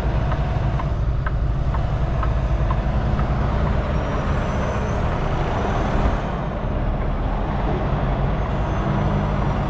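Semi-truck's diesel engine running steadily at low speed while the rig reverses, with faint ticking in the first few seconds.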